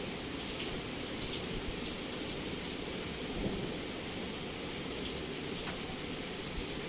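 Heavy rain pouring steadily against a window, with scattered sharp drop hits and a low rumble of thunder underneath.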